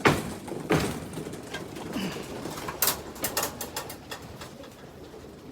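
Young racing pigeons cooing in the loft, with a loud knock at the start and another just under a second in as the loft is opened to let them out, then a quick run of sharp clicks about three seconds in.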